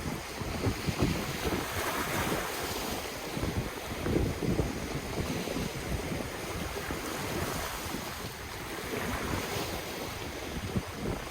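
Ocean surf washing in and out, swelling and easing every few seconds, with wind gusting and rumbling on the microphone.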